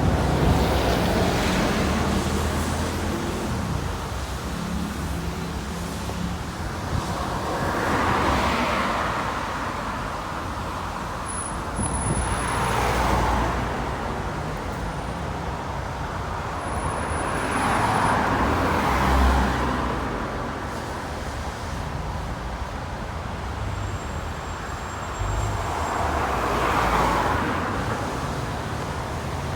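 Road traffic passing: about five vehicles go by one after another, each a swell of tyre and engine noise that rises and fades, over a steady low rumble of traffic.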